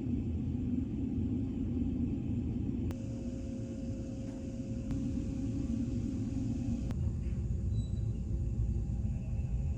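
Steady low rumble of a large car ferry's machinery heard aboard the ship, with a faint steady hum above it and a few faint clicks.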